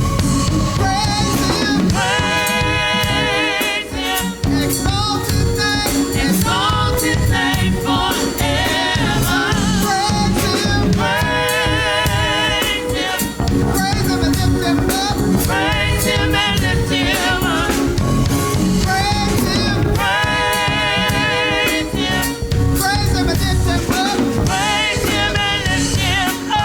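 Gospel worship music: singers holding wavering, vibrato notes over a band with drums. The music cuts off sharply right at the end.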